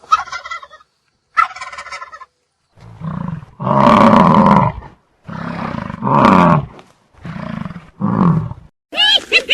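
Two short gobbling calls, then a large animal roaring three times in long, deep, loud calls. Near the end a different, chattering animal call begins.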